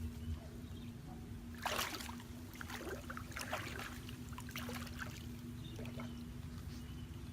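Water splashing and trickling in a few short sloshes, over a steady low hum.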